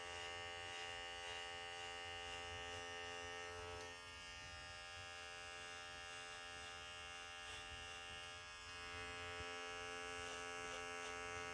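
Electric pet hair trimmer running with a faint, steady buzz.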